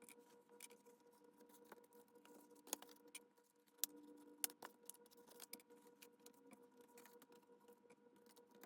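Near silence broken by faint, scattered small clicks and taps from handling paper-craft pieces and clips at a work table, over a faint steady hum.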